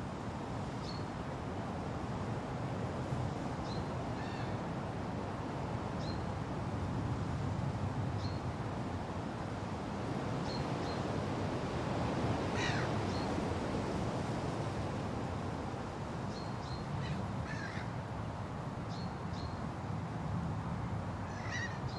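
Wind blowing steadily through forest foliage, with birds calling over it: short high chirps every second or two and a few longer calls.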